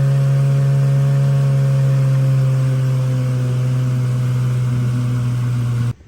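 Outboard motor on a gheenoe running at a steady cruising speed, a loud even drone whose pitch sags slightly toward the end. It cuts off abruptly near the end.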